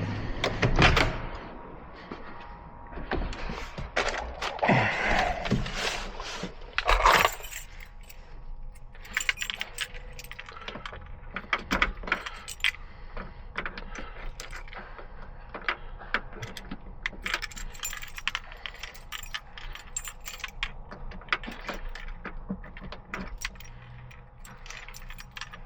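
Hand tools being handled, with light metallic clinking and rattling throughout and a louder scraping clatter about five to seven seconds in.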